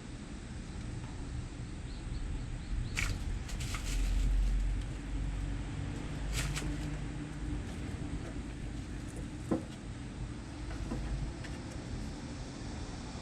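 Kittens playing: a few scattered scratches and taps over a steady low rumble, with one sharper tap about two thirds of the way through.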